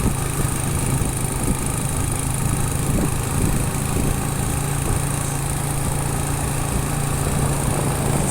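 Small motorcycle engine running steadily at an even pitch while riding, under a steady rushing noise from the ride.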